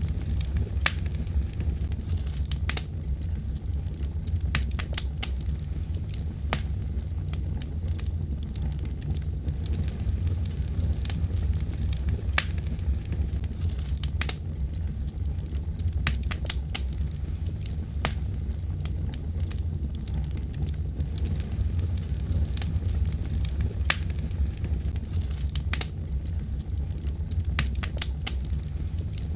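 Wood fire burning with a steady low rumble and irregular sharp crackles and pops, several clusters of them a few seconds apart.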